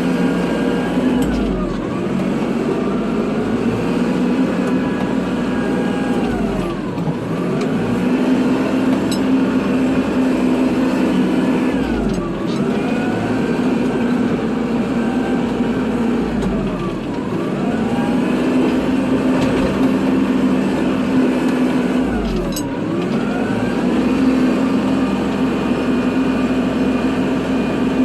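Kubota tractor's diesel engine running steadily. Its pitch sags briefly and climbs back about every five seconds, five times over.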